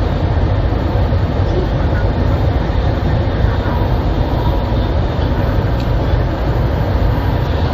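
700 series Shinkansen train running at speed through a tunnel, heard from inside the passenger cabin: a loud, steady rumble and rush of wheels and air that does not let up.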